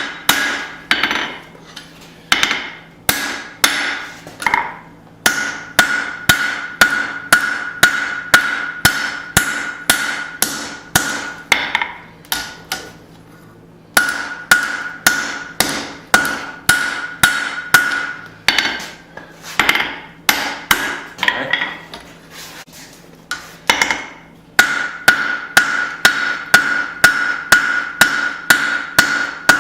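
Forging hammer striking hot steel on an anvil in a steady run of blows, about two to three a second, with a ringing tone held under each run. The blows stop briefly about twelve seconds in and again about twenty-two seconds in, then resume.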